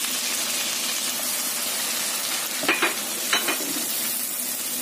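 Diced tomatoes sizzling in hot oil in a frying pan, a steady frying hiss. A slotted spatula stirs them, scraping and knocking against the pan a few times about three seconds in.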